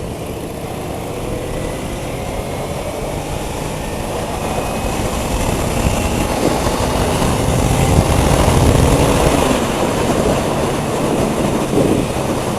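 Motorcycle engine accelerating at highway speed under heavy wind rush on the microphone. The engine note climbs as the noise swells to its loudest about eight seconds in, then eases off.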